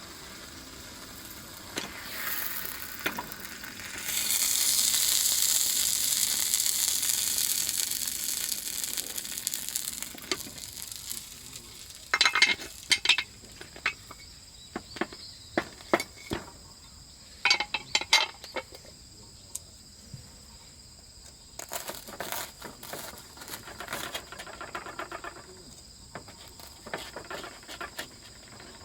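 Food sizzling loudly in a hot pan, starting suddenly about four seconds in and dying down over several seconds. Scattered clinks and clatters of metal cookware follow, over steady chirping of crickets.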